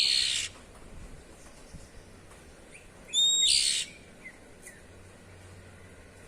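Oriental magpie-robin (kacer) giving two harsh, rasping 'cier' calls about three seconds apart, each opened by a short whistle: its 'ngeplong' call.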